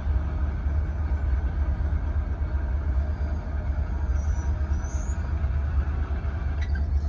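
Freight cars of a mixed manifest train rolling past with a steady deep rumble, and two faint, short, high squeals about four and five seconds in.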